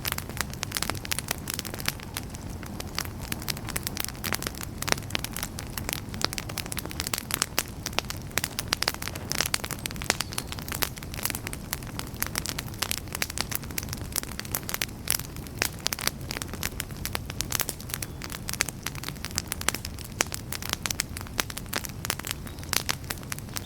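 Wood campfire crackling: a dense, steady stream of pops and snaps over the low, even rush of the flames.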